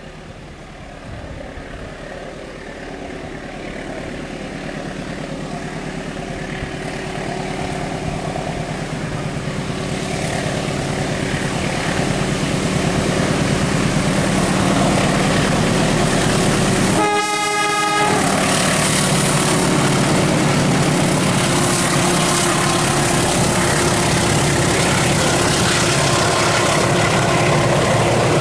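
Train approaching, its rumble and wheel noise growing steadily louder for about half the time and then staying loud as it runs by. About two thirds of the way through, the locomotive gives one short horn blast.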